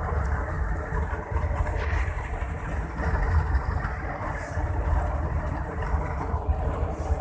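Scania K113 diesel engine running: a steady low rumble with no marked revving.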